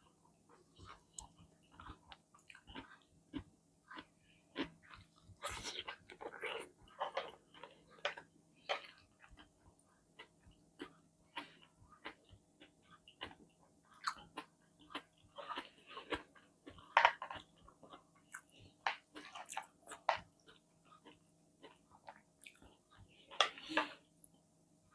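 A person chewing and biting food close to the microphone: irregular wet clicks and crunches, with a few louder clusters of bites.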